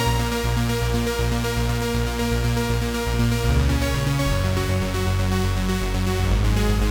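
Cherry Audio P10 polyphonic software synthesizer playing a preset: a rhythmic electronic pattern with a pulsing bass line under held higher notes.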